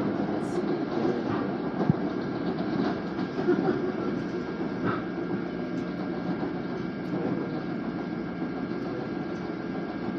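Steady running noise of an LIRR M7 electric multiple-unit car at speed, heard inside the car: wheels on rail under a faint steady hum, with a couple of short clicks about two and five seconds in.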